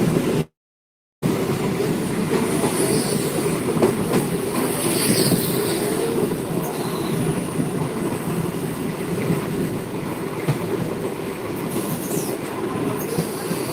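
Train running on the rails: a steady rumble of wheels on track, with faint high-pitched wheel squeals. The sound cuts out completely for under a second near the start.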